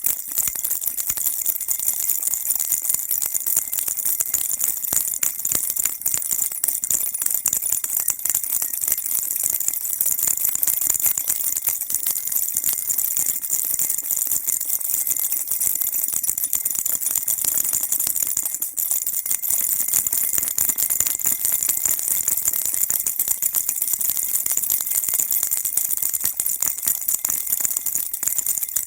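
Baby rattle shaken continuously, a dense, steady, high-pitched rattling with no pauses.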